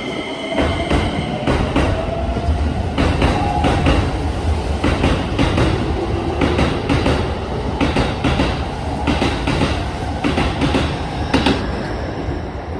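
Keikyu 2100 series electric train pulling out and accelerating: a motor whine rising in pitch over a steady rumble, with the wheels clicking over rail joints.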